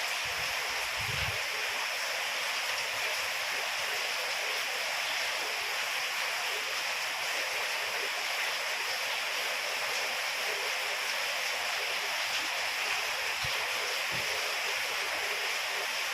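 Steady rain falling, an even hiss that keeps up without letting off.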